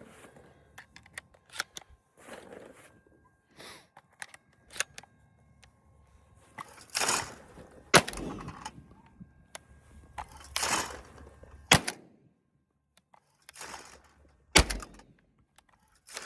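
Benelli M2 20-gauge semi-automatic shotgun firing three shots about three seconds apart. Each shot comes about a second after a short rushing noise, with light clicks and handling noises in the first half.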